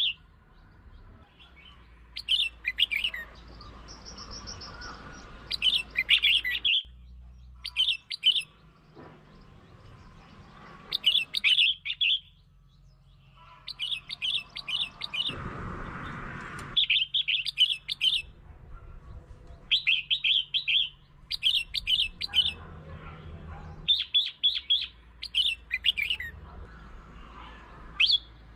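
Red-whiskered bulbul singing: short, bright chirpy phrases repeated every second or two, with short pauses between them. A brief rushing noise rises and falls about halfway through.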